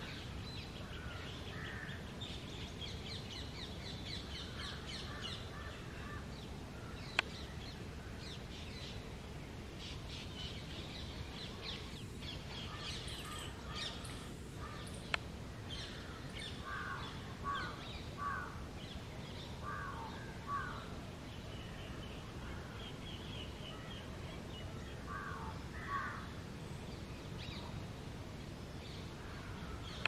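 Birds calling: repeated high chirps and quick runs of twittering notes, joined in the second half by short groups of two or three harsher, lower calls, over a steady low background hum. Two sharp clicks stand out, about seven and fifteen seconds in.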